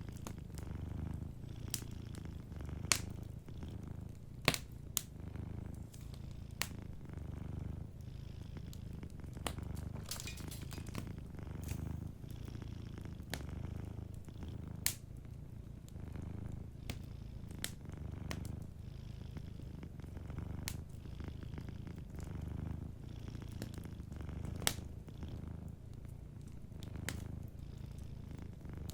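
Domestic cat purring steadily in a low rhythm, rising and falling with each breath, over a wood fire's scattered sharp pops and crackles.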